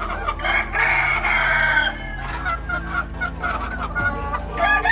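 A flock of chickens: hens clucking in short repeated calls and a rooster crowing for about a second and a half near the start, with a steady low hum underneath.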